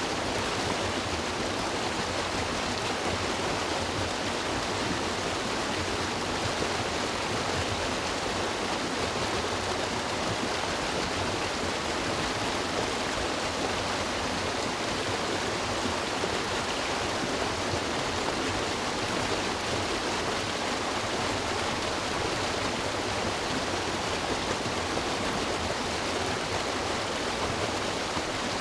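River water rushing and splashing over rocks, a steady even flow.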